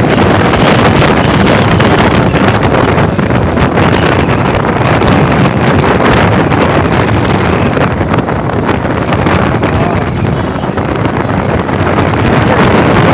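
Wind rushing loudly over the microphone while riding a motorcycle through traffic, with engine and road noise underneath.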